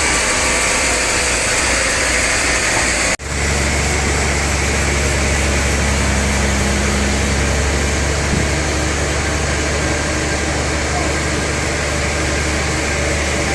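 Sawmill machinery running steadily with a deep, even engine-like hum. The sound breaks off sharply about three seconds in, then resumes with the low hum stronger.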